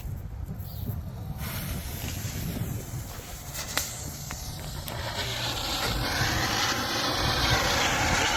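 Firework hissing as it sprays sparks, getting much louder about five seconds in, with a couple of sharp cracks before that. A low rumble of wind on the microphone runs underneath.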